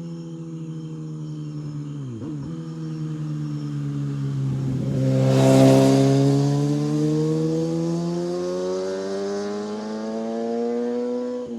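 Engine running with its pitch sinking and then climbing again, with a loud rush of noise swelling to a peak a little past the middle.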